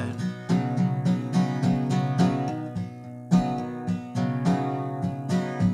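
Acoustic guitar strumming chords in a steady rhythm, an instrumental passage of a country-style song with no vocals.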